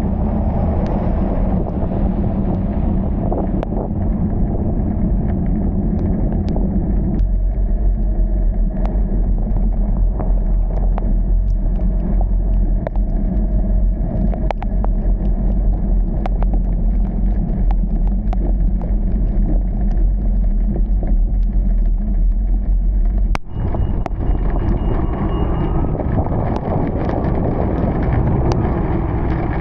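Car driving in heavy rain: a steady low rumble of engine and road noise, with scattered sharp ticks throughout. The sound dips briefly about three quarters of the way through, then carries on.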